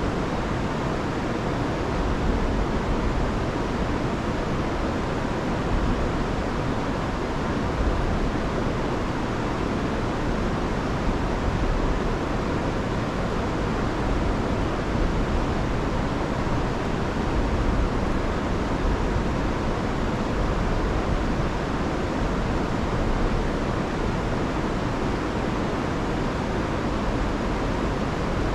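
Rain-swollen river rushing over a waterfall: a steady, dense roar of water with no break.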